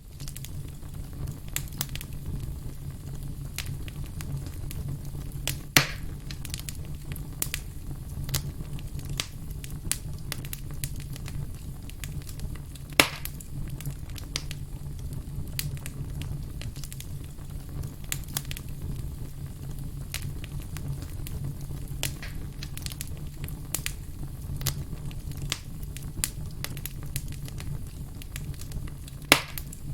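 Wood fire crackling, with frequent small snaps and three louder pops: about six seconds in, about halfway through, and near the end, over a steady low rumble.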